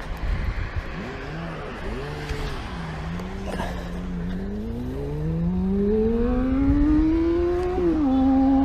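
Vehicle engine accelerating: its pitch rises steadily for several seconds, then drops suddenly near the end, as at a gear change, and holds steady.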